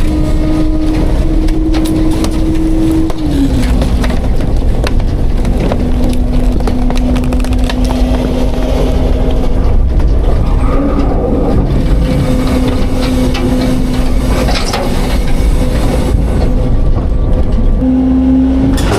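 Autocar-Heil Freedom front-load garbage truck compacting garbage, its engine held at raised revs to drive the hydraulic packer. A steady engine tone drops in pitch a few seconds in and rises again near the end, with many cracks and crunches from the load being crushed.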